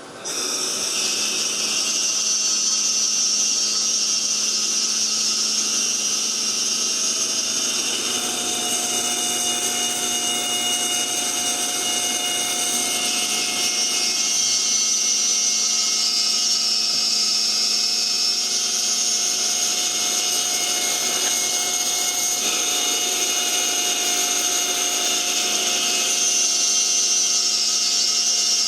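CNC router spindle milling a wooden ring insert: a steady high whine with several held tones that starts suddenly right at the beginning and runs on without a break.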